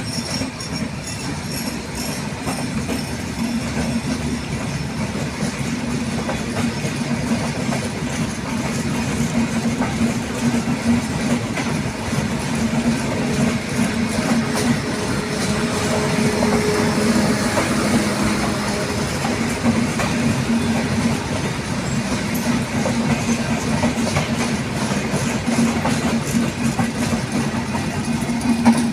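Passenger express train gathering speed out of a station: steady rumble and rattle of the coaches' wheels on the track. It grows a little louder over the first half, then holds steady.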